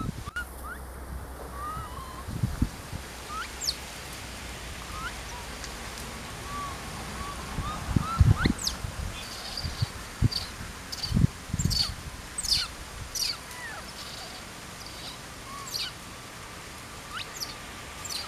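Forest ambience with scattered short bird chirps and quick whistled calls, busiest through the middle, and a few dull low thumps.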